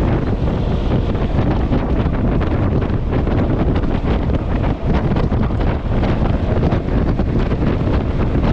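Wind rushing and buffeting over the microphone of a moving Yamaha XMAX scooter, a loud steady roar that covers the engine and road noise.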